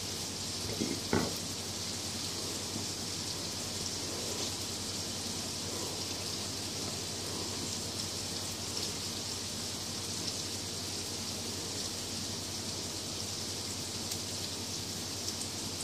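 Hamburger patties sizzling steadily as they fry, with one short tap about a second in.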